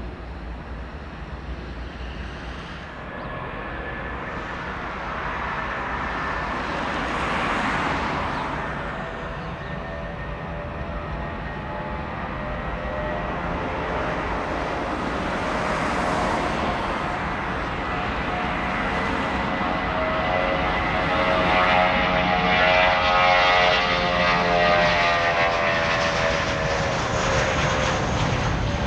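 Jet airliner engines running with a steady high whine, growing louder as the aircraft comes closer.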